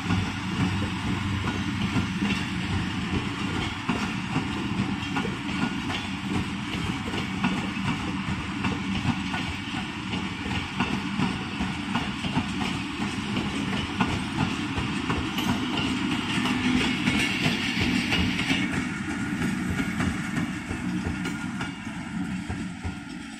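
Passenger coaches of a Pakistan Railways express rolling past on the track: a steady rumble of wheels on rail with a rattle of knocks from the rail joints. It fades away over the last few seconds as the end of the train goes by.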